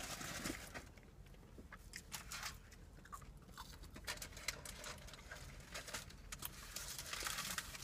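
Faint close-up eating sounds: french fries being chewed, with irregular small clicks of mouth noise.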